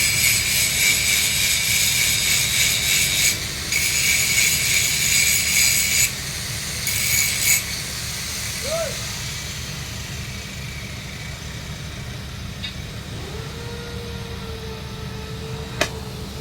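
Stick (SMAW) welding arc on 3-inch schedule 80 pipe, crackling and hissing in runs of a few seconds with short breaks, dying away after about seven and a half seconds, over a steady low hum.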